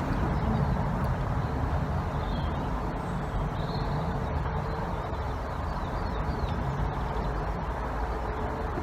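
Steady outdoor background rumble with a few faint bird chirps.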